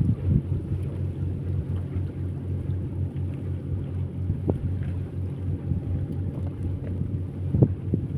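A motor running at a steady low hum, with wind buffeting the microphone and a couple of brief knocks.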